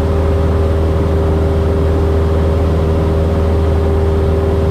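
Cessna 172S's four-cylinder Lycoming IO-360 engine and propeller droning steadily in flight, heard inside the cabin.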